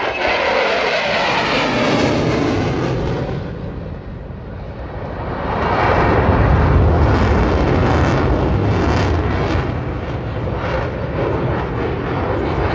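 F-16 fighter jet engine noise from a display pass: a falling-pitch whine and roar as it goes by, easing off about four seconds in, then swelling again to its loudest with a deep rumble.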